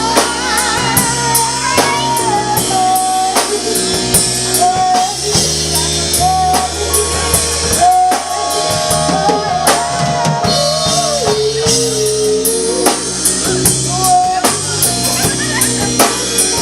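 Live band playing: a drum kit keeps a steady beat with bass notes underneath, while a melodic lead line with vibrato, a voice or lead instrument, runs over the top.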